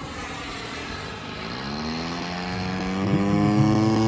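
Engines of a radio-controlled scale-model B-17 bomber revving up: after a low rumble, their note rises steadily in pitch and grows louder from about one and a half seconds in.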